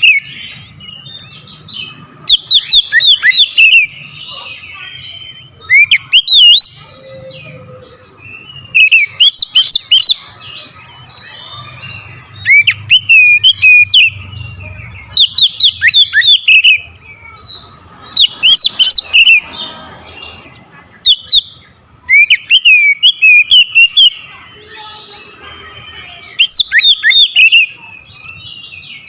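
Oriental magpie-robin (kacer) singing loudly in short bursts of rapid, sweeping whistled notes, one phrase every two to three seconds. This is the hard, full-power song that kacer keepers play to provoke a rival bird into answering.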